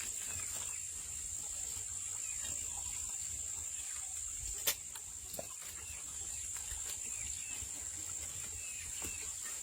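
Insects droning in a steady high-pitched chorus, with a low rumble underneath and one sharp click about five seconds in.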